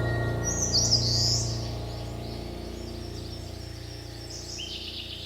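Birds chirping in quick high phrases about half a second in and again near the end, over soft background music holding a sustained chord that slowly fades.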